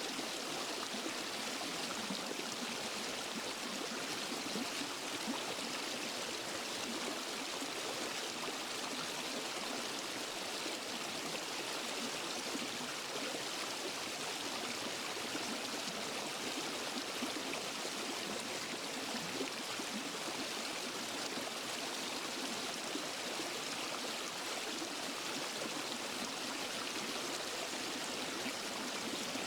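Water of a waterfall and forest stream rushing and splashing over rocks, a steady even wash of sound.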